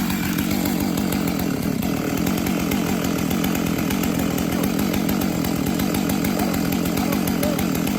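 Chainsaw running steadily at a constant pitch.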